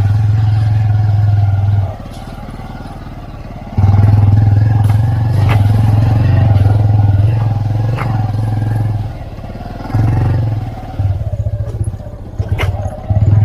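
Motorcycle engine running under way, with a strong low rumble that eases off about two seconds in and comes back about two seconds later, then rises and falls unevenly near the end. A few sharp clatters sound over it.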